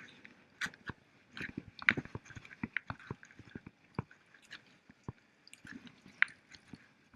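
Scattered sharp clicks and knocks at irregular intervals, about two or three a second.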